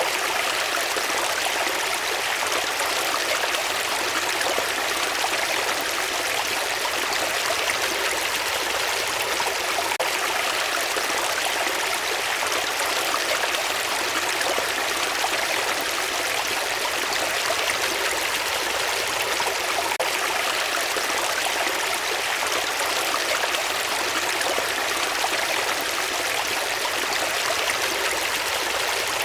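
Water of a stream running steadily, a constant even rush with no breaks or changes.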